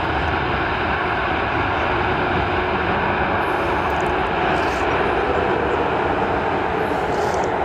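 Jet airliner engines running loud and steady, a continuous rushing noise with a faint steady hum through it.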